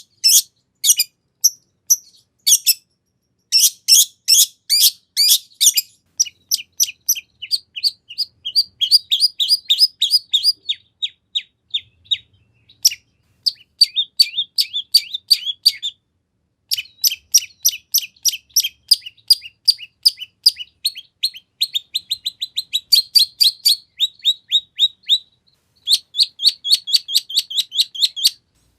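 Long-tailed shrike singing a fast, varied song packed with mimicked phrases: runs of sharp high notes and rapid chattering trills, broken by a few short pauses.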